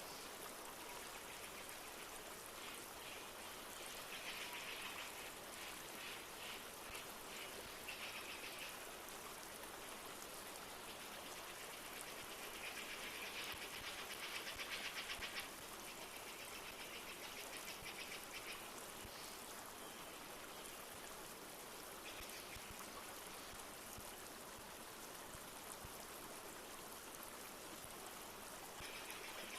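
A river flowing steadily with light rain falling. Over it come a few bursts of rapid, high trilling from birds, the longest about halfway through.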